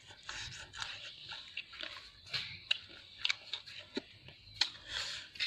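A person chewing and biting crispy dry-fried frog, with irregular crunches and sharp clicks.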